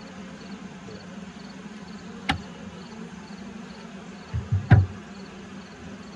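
A colony of honey bees buzzing steadily in an open horizontal hive, with a sharp click a little over two seconds in and a louder knock with dull thumps about three-quarters of the way through.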